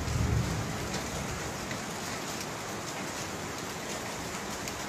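Steady rain laden with volcanic ash and sand, an even hiss of drops pattering on surfaces with faint scattered ticks. A low rumble sounds in the first half second.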